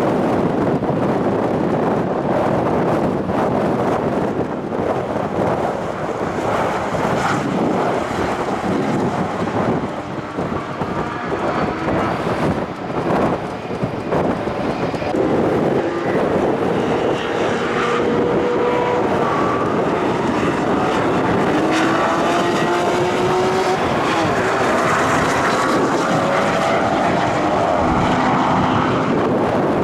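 Vehicle engine under hard acceleration on a race track. Its pitch climbs and drops several times in a row through the second half, shifting up through the gears, over a steady rush of wind noise.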